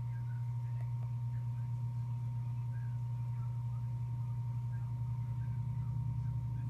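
Rain lamp's oil pump humming steadily at a low pitch, with a thin, fainter steady whine above it.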